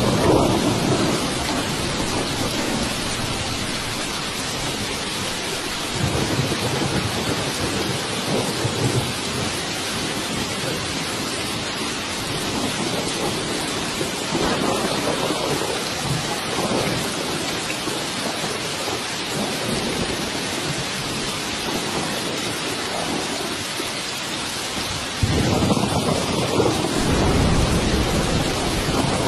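Steady heavy rain hissing, with thunder rolling in low swells several times. About 25 seconds in, a louder rumble of thunder starts abruptly.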